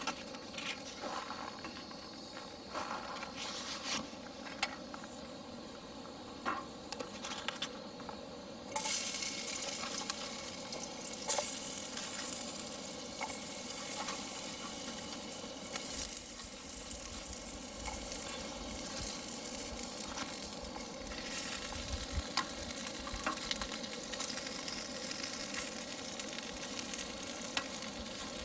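Sliced potatoes frying in olive oil in a small aluminium camp pan on a canister stove. For the first third there are only small handling clicks. Then a loud sizzle breaks out as the potatoes hit the hot oil and goes on as a steady frying hiss, with a few sharp clinks of the utensil against the pan.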